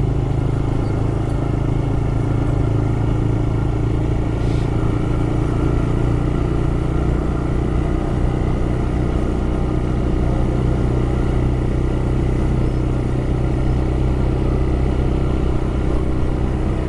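TVS Raider 125's single-cylinder four-stroke engine running at a steady speed as the motorcycle rides along.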